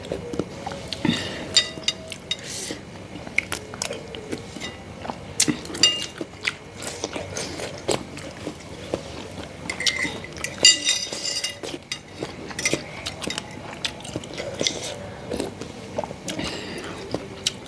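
Close-miked chewing and biting of meatball soup, with irregular wet mouth clicks and smacks.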